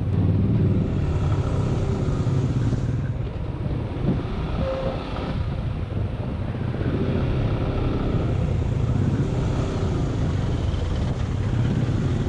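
Suzuki Gixxer SF single-cylinder motorcycle engine running steadily while riding, with a constant low rumble.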